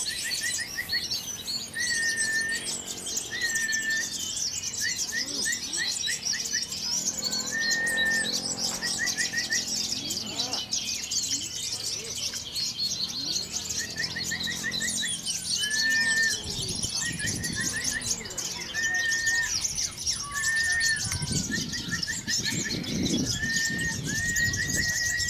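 Many caged songbirds singing at once in dense, continuous chirps and trills, with one short whistled note and quick trill repeated over and over.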